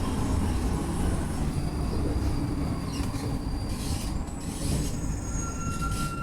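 Alstom NS-16 metro train heard from inside a car, its low running rumble easing as it slows into a station. Thin, steady high-pitched whines come in during the second half as it brakes.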